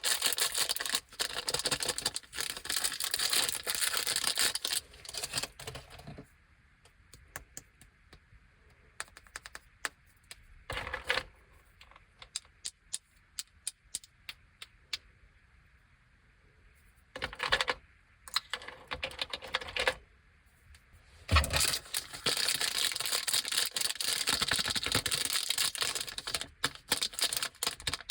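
Plastic snack wrappers crinkling and crackling as they are handled and opened. Dense crinkling comes first, then a stretch of sparse light clicks and short rustles. A knock about 21 seconds in is followed by dense crinkling again as another bag is opened.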